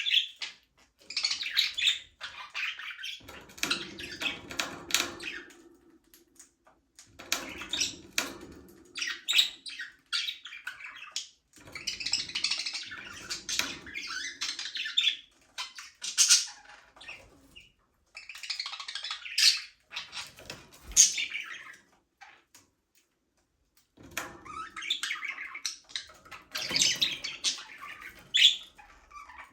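A flock of budgerigars chirping and chattering in irregular bursts, with a short lull about two-thirds of the way through.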